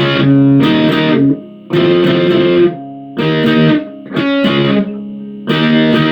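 Guitar strumming the riff's chord sequence with open notes, in hard down strums, each chord ringing for about a second before the next one.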